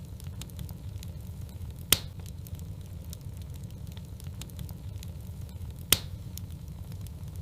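Log fire crackling: a steady low rumble of the flames with many small ticks, and two loud sharp pops, about two seconds in and again four seconds later.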